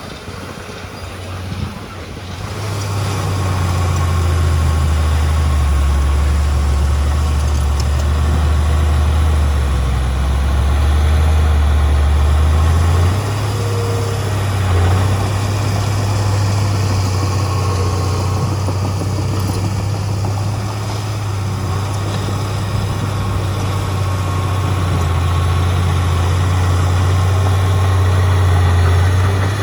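Heavy diesel engine of earthmoving machinery running with a deep steady note. It grows louder a couple of seconds in and shifts pitch about halfway through.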